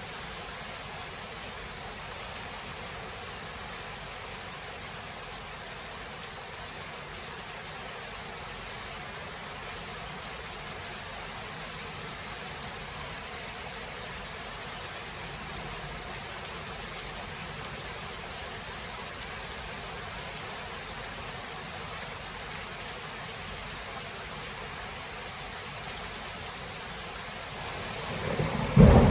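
Steady rain falling, an even hiss, with a loud rumble of thunder breaking in about a second before the end.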